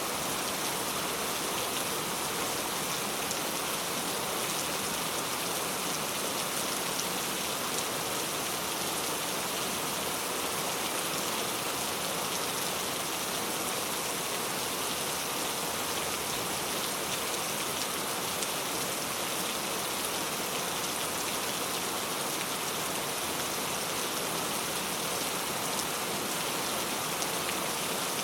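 Steady rain falling, an even hiss of drops with fine scattered patter of drops striking a surface.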